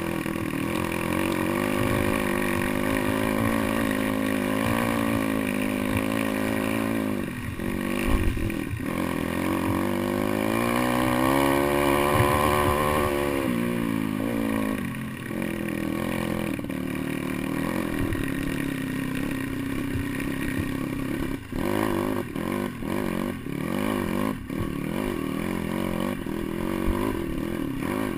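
Pit bike's small single-cylinder engine running under changing throttle while riding off-road. It revs up and falls away about halfway through, with several brief throttle dips later on.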